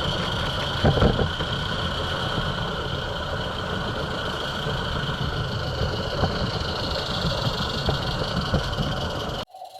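Roundhouse Katie live-steam garden-scale locomotive running on 45mm track: a steady rumble with an even hiss and a few knocks about a second in. The sound cuts off abruptly near the end.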